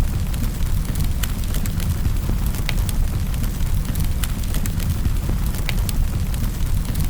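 Wood fire burning in a fireplace: a steady low rumble of flames with scattered sharp crackles and pops, about one or two a second.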